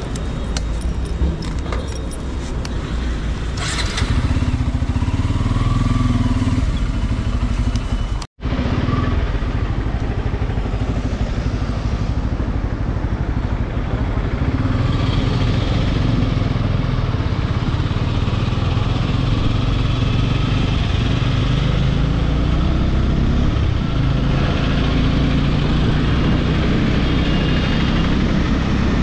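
Bajaj Pulsar N250's single-cylinder engine and exhaust running on the move, its note stepping up and down with throttle. The sound cuts out completely for a moment about eight seconds in.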